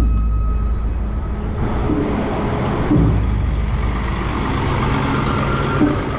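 Steady rumble of a wooden festival float's wheels rolling along the street as it is hauled, with a faint thin held tone from festival music in the background.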